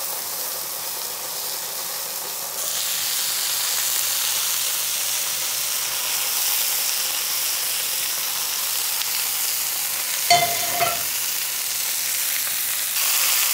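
Pressed oyster mushrooms sizzling and crackling in oil in a cast-iron skillet as the water cooks out of them; the sizzle grows louder about two and a half seconds in. About ten seconds in, a brief clank with a short ring.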